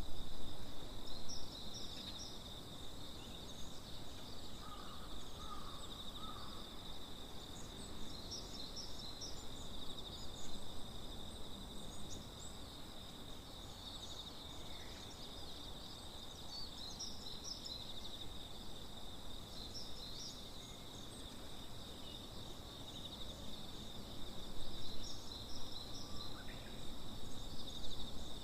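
Tropical forest ambience: a steady high-pitched insect drone, with scattered short bird chirps and calls over it.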